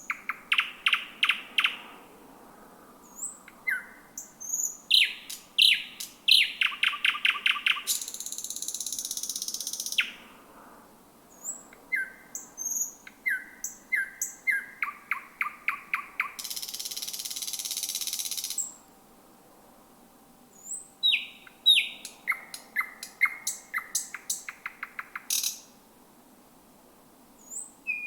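Thrush nightingale singing: loud phrases of sharp whistled notes and fast rattles of clicks, the 'trott' notes. Two long harsh buzzing notes, the 'sirrr', come about eight and sixteen seconds in, and the bird pauses briefly near the end.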